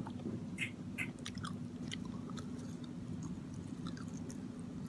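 Close-up mouth sounds of a man chewing shredded rice paper (bánh tráng), with many short wet smacking clicks that are thickest in the first two seconds. A steady low hum runs underneath.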